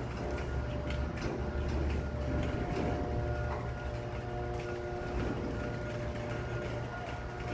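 Freight train of autorack cars rolling past: a steady low rumble of steel wheels on the rails, with scattered clicks and faint thin steady whines.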